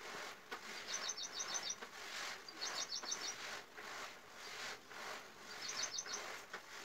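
A bird's quick, high chirps come in three short runs of several notes each. Under them is the soft scratching of a pen drawing on paper.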